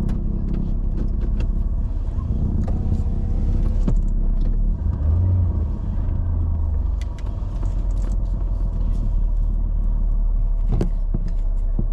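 Car moving slowly with a steady low engine and road rumble, a little louder about five seconds in, with scattered light clicks and knocks.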